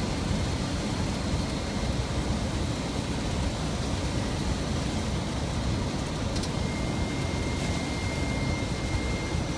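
Steady cockpit noise of a Boeing 737-500 on short final approach: air rushing past the flight deck and its CFM56 turbofan engines running, with a faint steady high tone over it.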